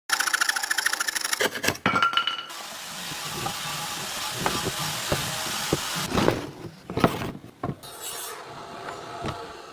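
Wood being worked by hand: about a second and a half of fast, even rasping strokes and a brief squeal, then a steady scraping, then a run of separate knocks and clicks.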